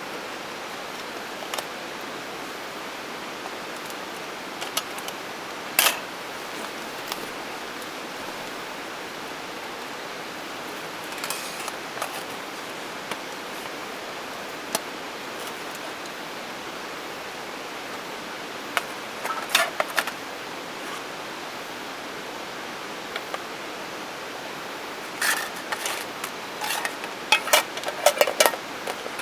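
Steady background hiss with scattered clicks and clinks of camp cooking gear being handled, busiest near the end.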